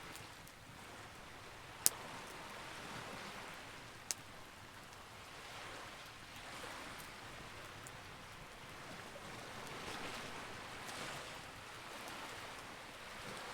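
Campfire crackling: two sharp pops, about two seconds in and again about four seconds in, over a steady hiss that slowly swells and fades.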